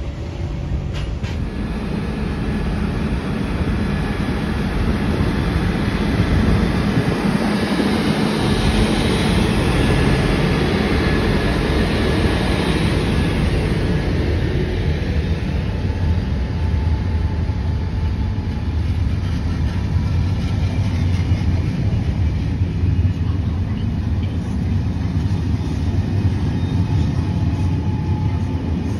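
A train running past on the rails, a continuous rumble of wheels and running gear that swells over the first several seconds, is loudest around ten seconds in, then eases to a steady low rumble.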